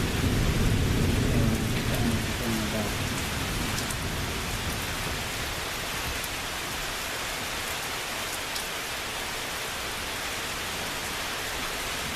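Steady rain falling, with the low rumble of thunder dying away over the first few seconds.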